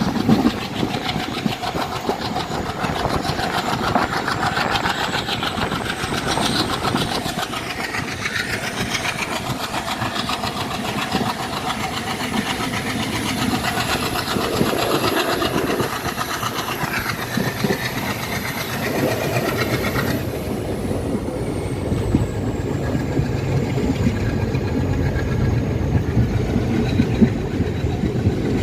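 Express passenger train moving on the track: a continuous rumble and rattle of the coaches and wheels. A faint high whine rises slowly, then drops away about twenty seconds in.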